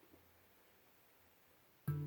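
Near silence, then near the end a handpan note is struck and rings out with several clear overtones.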